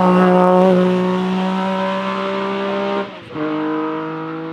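Rally car engine held at high revs with a steady, nearly constant pitch. About three seconds in it breaks off briefly, like a gear change, then carries on at a lower pitch and slowly gets quieter.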